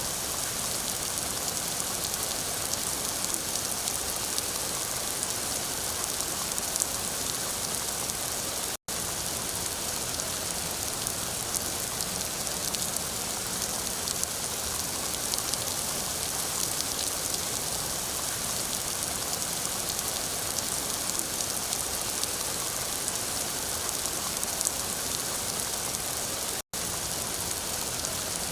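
Steady rain falling: a dense, even hiss with fine pattering drops. Twice the sound cuts out for a split second and comes straight back.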